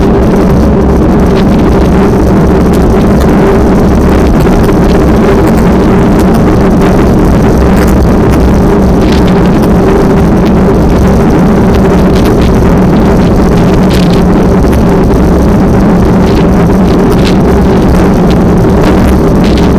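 An engine running steadily at a constant pitch, loud and close, with wind buffeting the microphone.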